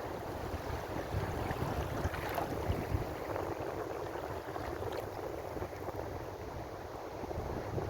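Ocean waves: a steady, continuous wash of surf with no single crash standing out.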